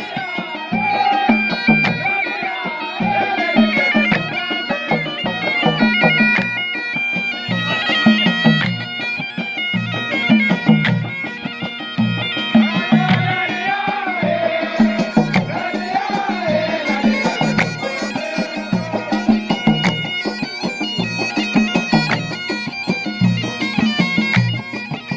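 A sea-music (fann al-bahr) folk troupe performing traditional music: a wavering melody over a steady, repeating drum beat.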